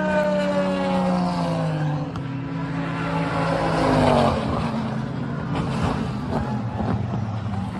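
Race car engines passing at speed, each note falling in pitch as it goes by; the loudest pass comes about four seconds in.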